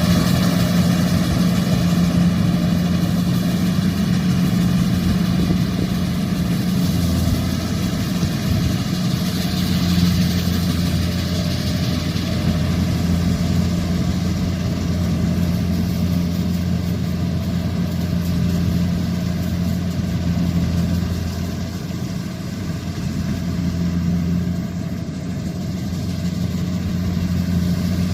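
Kubota combine harvester's diesel engine running steadily with a constant low hum, dipping slightly in loudness about two-thirds of the way through.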